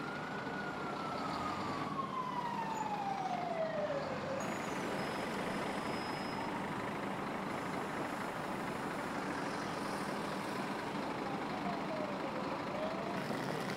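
Emergency vehicle siren wailing in slow sweeps: one long fall in pitch over the first four seconds and another near the end, over steady street noise.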